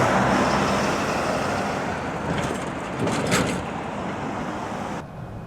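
Freight train rolling past, a steady rumble with a constant low hum and a brief high squeal about three seconds in. It cuts off suddenly near the end.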